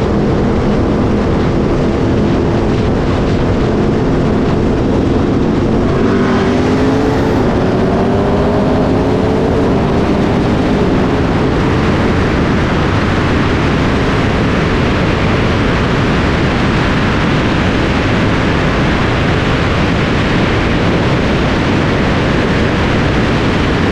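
Modified Chevrolet Camaro V8 running, then pulling hard with its engine note rising for several seconds as it accelerates. After that, heavy wind and road noise at speed drowns out the engine.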